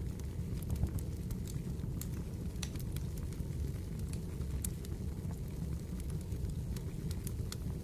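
Fireplace fire crackling: a steady low rumble of burning with many small, irregular sharp pops and crackles scattered throughout.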